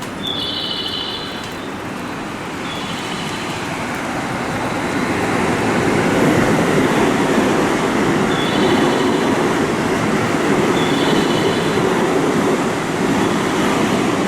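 A train running through the station. Its rumble builds over several seconds and then holds loud, with brief high-pitched tones sounding a few times over it.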